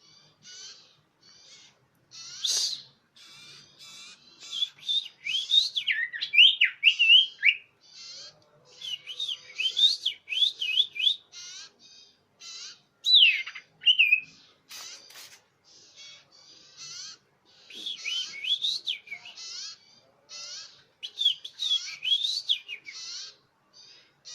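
Common iora (cipoh) calling, a lure recording: a continuous run of short chirping notes mixed with loud whistled notes that slide up and down, with bursts of these whistles about a quarter of the way in, in the middle, and near the end.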